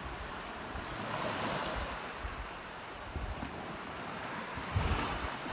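Sea water washing in the shallows, with wind buffeting the microphone in low rumbling gusts.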